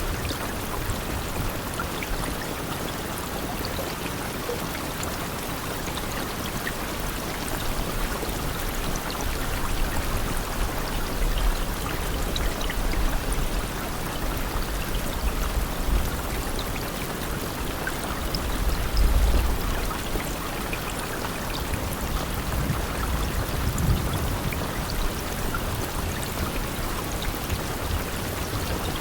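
Steady heavy rain: a dense, even hiss with scattered drop ticks. A low rumble swells up a few times, loudest about nineteen seconds in.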